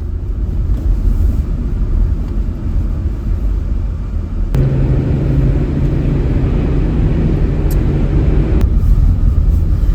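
Steady low engine and road rumble of a truck being driven, heard from inside the cab. A steady low hum joins about halfway through and drops away again near the end.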